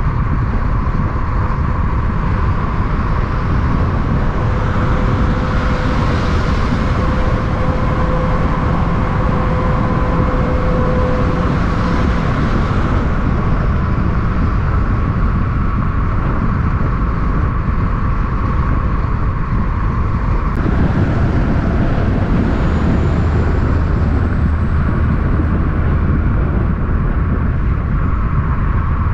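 Loud, steady road-traffic rumble of vehicles running past on a highway, with louder swells as individual vehicles go by.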